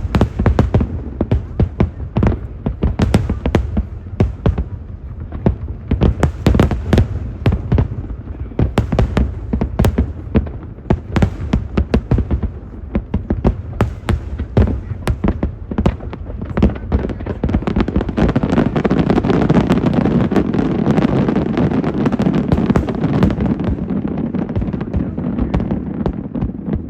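Fireworks bursting in quick succession, a dense run of booms and bangs that thickens about eighteen seconds in into a near-continuous barrage before dying away at the end.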